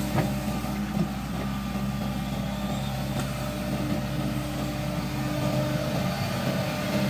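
Hitachi Zaxis 110 excavator's diesel engine running steadily, with a few short knocks.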